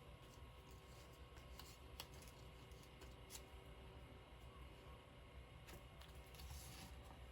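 Faint handling of paper and craft pieces: a few light clicks and taps, then a short rustle near the end.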